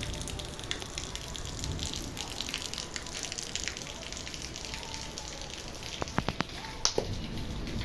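Rain falling, with dripping and splashing water. A quick run of sharp knocks sounds about six seconds in.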